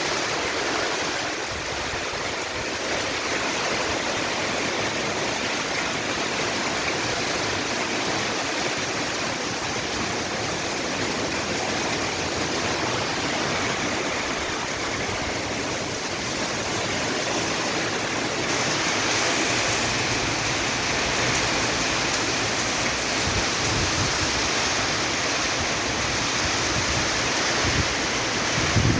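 Heavy rain falling steadily in wind, a continuous rushing hiss. Low buffeting rumbles come in near the end.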